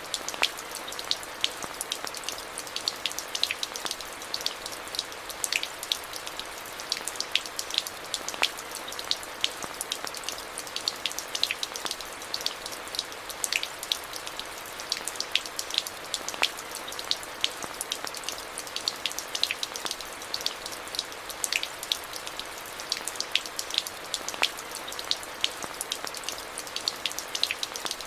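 Steady rain: an even hiss of rainfall with many sharp, close drop impacts ticking over it.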